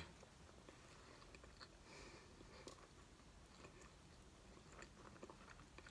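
Faint chewing of a mouthful of burger with the mouth closed: soft, scattered mouth clicks and squelches over near silence.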